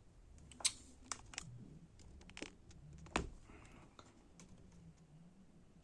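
A handful of sharp, irregularly spaced clicks and taps from handling laptop parts during reassembly, with the two loudest about a second in and near the middle.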